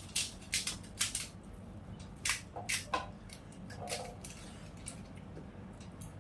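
Crisp fuchka (pani puri) shells cracking and crunching as they are handled and bitten, a run of sharp crackles mostly in the first three seconds.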